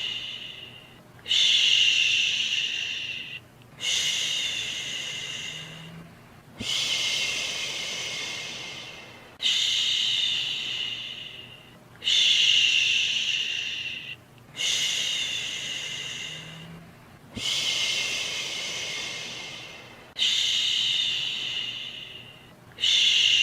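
Rhythmic human 'shhh' shushing, a soothing shush for a baby: each shush starts sharply and fades away over two to three seconds, and they repeat evenly about every two and a half seconds, roughly nine in a row.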